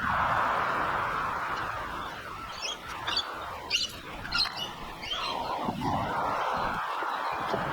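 Several short, high bird chirps in quick succession in the middle, over a steady background hiss.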